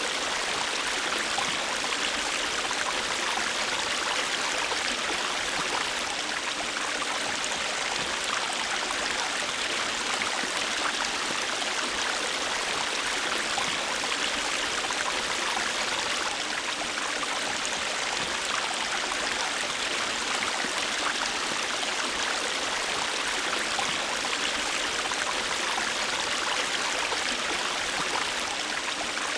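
River water flowing steadily over rocks, a continuous rushing and babbling with no breaks.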